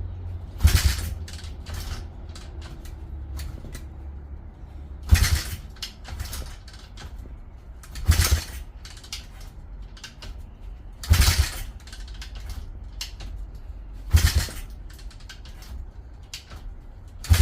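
A 140cc pit bike engine being kick-started over and over without firing: a short, loud turn-over of the engine roughly every three seconds, six times, with light clicks and rattles between kicks.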